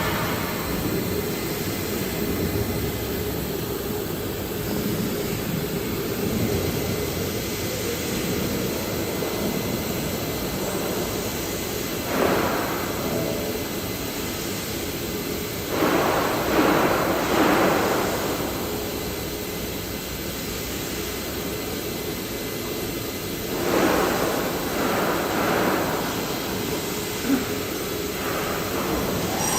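A CNC vertical machining center running, a steady mechanical noise with a faint held tone. Louder rushing surges come about twelve seconds in, several around sixteen to eighteen seconds, and again near twenty-four seconds.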